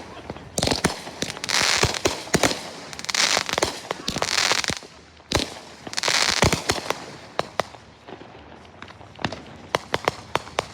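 Fireworks going off: rapid sharp pops and bangs with several bursts of dense crackling, thinning to scattered single pops near the end.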